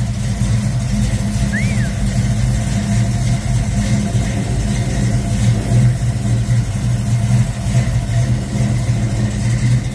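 Ford small-block V8 running at a steady idle, the engine bay open.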